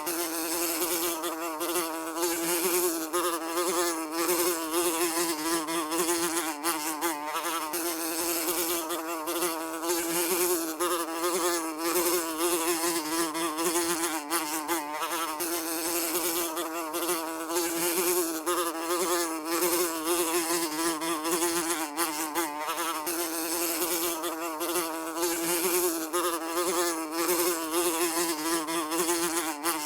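A fly buzzing steadily, its wing-beat hum wavering slightly in pitch as it flies about.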